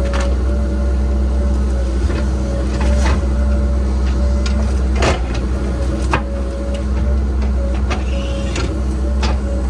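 Cat 306 excavator's diesel engine running steadily under work, with a steady whine over its rumble and several sharp knocks and clanks scattered through.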